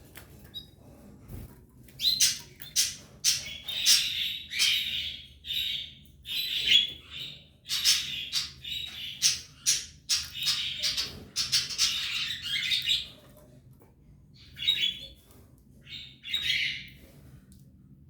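Canary nestlings in the nest giving raspy, squeaky begging calls in a rapid run of bursts lasting about eleven seconds, then three shorter bursts near the end.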